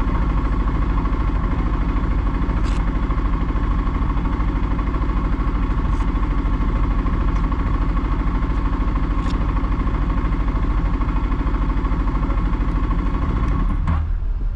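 Engine running at a steady drone with a constant hum. It changes abruptly just before the end.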